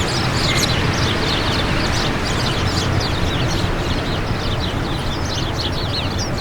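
Steady wind with many small birds chirping in quick, high twittering calls, busiest near the end.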